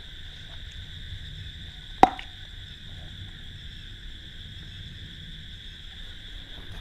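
Steady high chirring of crickets, with one sharp click about two seconds in.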